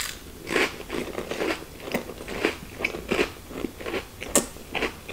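A person chewing a mouthful of crunchy cracker, with a crisp crunch about two to three times a second.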